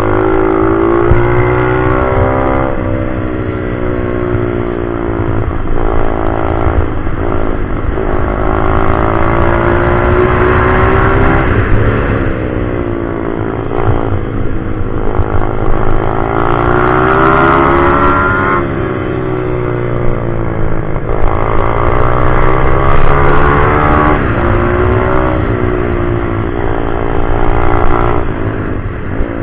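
Pit bike engine running hard around a track, its pitch climbing and dropping again and again as it accelerates, changes gear and slows for corners.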